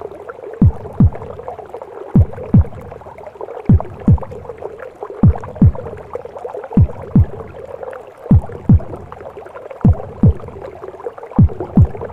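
A mother's heartbeat as heard in the womb: paired lub-dub thuds, each a deep falling beat, repeating slowly about every one and a half seconds. Under it runs a steady muffled whooshing womb noise.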